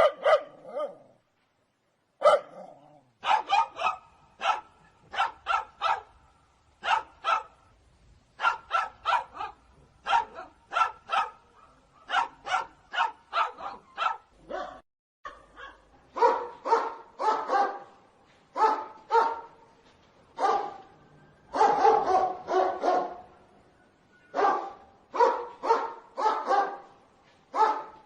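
Dog barking repeatedly in quick runs of short, sharp barks with brief pauses between them.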